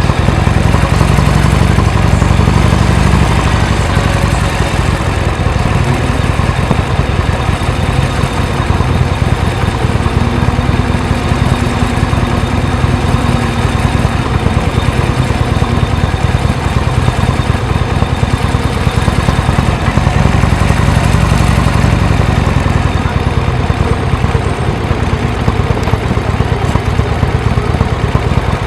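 Vehicle engine running steadily at low revs, a continuous deep rumble that swells in the first few seconds and again a little past the middle.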